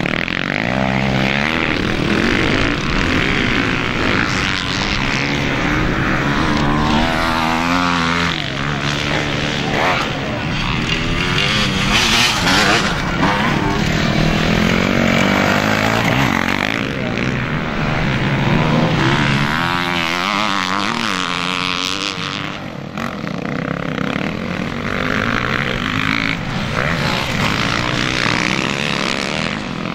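Motocross dirt bike engines revving hard on a race track, their pitch climbing and dropping again and again with throttle and gear changes, sometimes more than one bike at once.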